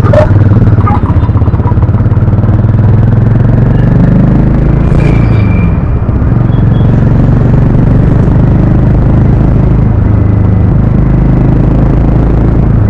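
Harley-Davidson X440's single-cylinder engine and exhaust running loud and steady under way, with a small dip in loudness about six seconds in.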